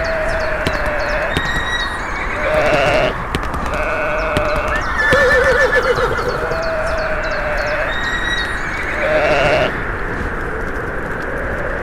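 Farm animal calls: a series of wavering cries, some short and trembling, some long and level, with the same sequence coming round again about six seconds later.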